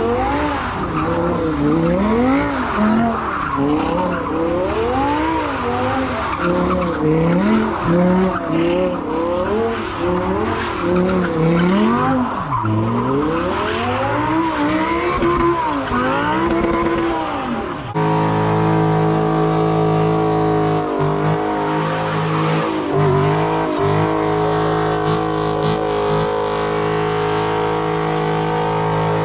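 Audi R8 doing donuts, its engine revving up and down over and over with tyre squeal. About two-thirds of the way through it cuts to a Dodge Challenger's engine held at steady high revs in a smoky burnout, tyres spinning.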